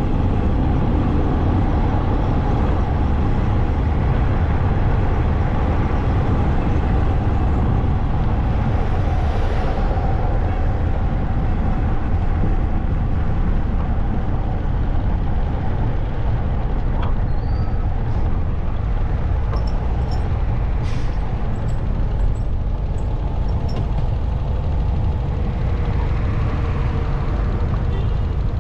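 Steady engine and road noise from a motorbike on the move, with a few faint ticks in the second half.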